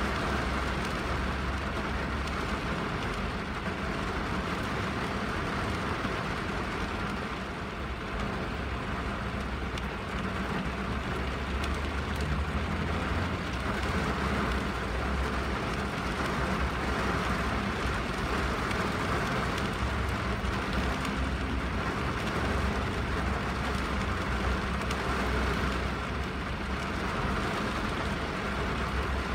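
Steady rain falling on a window and roof, an even hiss with a deep rumble underneath.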